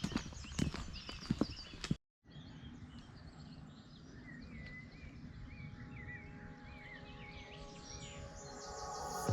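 Small birds chirping and singing over steady outdoor background noise. In the first two seconds a run of sharp knocks is heard, then the sound cuts out briefly before the birdsong.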